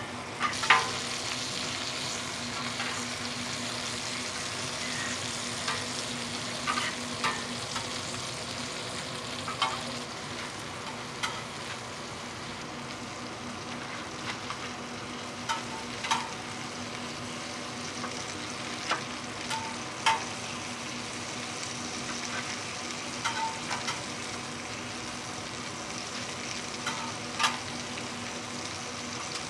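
Jeon (Korean savoury pancakes) sizzling steadily in oil on a griddle, with sharp clicks every few seconds and a low steady hum underneath.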